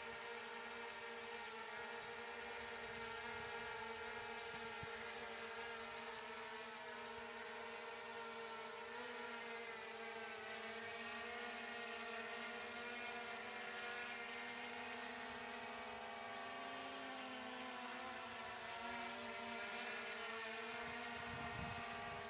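SJRC F22S 4K Pro quadcopter drone in flight, its brushless motors and propellers giving a steady whine of several tones. The pitch wavers a little now and then as the motors work to hold position against strong wind.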